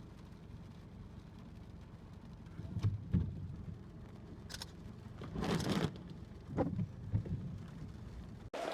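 Strong wind rumbling on the microphone by a stormy sea, with several short, louder rushes of noise on top.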